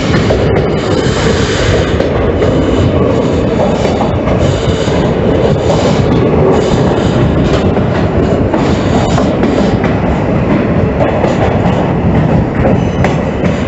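Train running along the track: a steady, loud rumble with wheel clatter over the rails.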